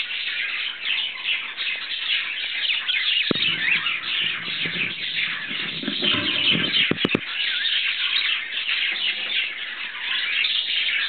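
Budgerigars chirping and chattering continuously in quick, high twittering calls. From about three seconds in there is a low rumble for a few seconds, ending in a few sharp clicks.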